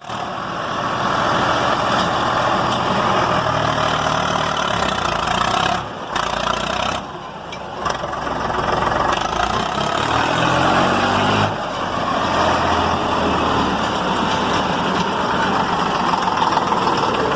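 Eicher 485 tractor's diesel engine running under load, pulling a fully loaded trolley. The engine note rises and falls, with brief dips in loudness around the middle.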